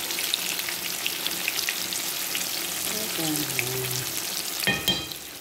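Aubergine slices shallow-frying in hot oil in a pan: a steady sizzle with fine crackles. Near the end a metal fork clinks twice against the pan.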